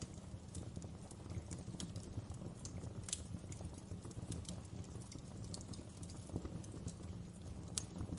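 Wood fire burning in a fireplace: a low steady rumble of flame with irregular crackles and snaps, a couple of sharper pops standing out, about three seconds in and near the end.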